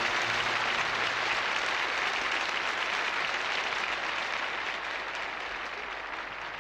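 Concert audience applauding at the end of a song, the band's final held chord fading out under the clapping in the first second; the applause slowly dies down.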